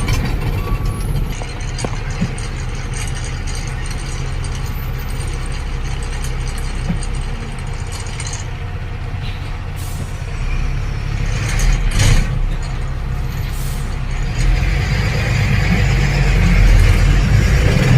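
A truck's diesel engine running steadily, heard from inside the cab, with a few short air hisses from the brakes partway through. The engine grows louder near the end as the truck pulls away.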